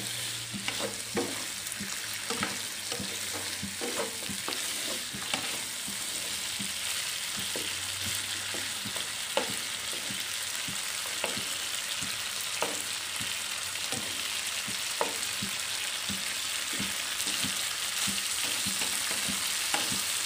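Chicken pieces and shallots sizzling steadily in butter in a non-stick wok, with a wooden spatula scraping and tapping against the pan about once or twice a second as they are stirred.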